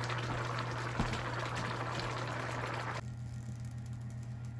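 A pot of chicken, vegetables and pigeon peas in coconut milk bubbling and simmering, cutting off abruptly about three seconds in. A steady low hum runs underneath.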